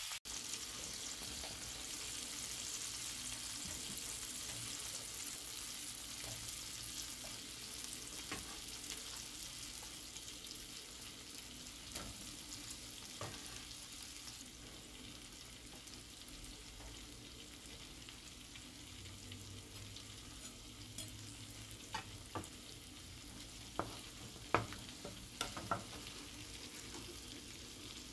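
Cauliflower steak sizzling in olive oil in a frying pan, a steady hiss that slowly eases off. Scattered clicks and knocks of a wooden spoon against the pan, more of them near the end.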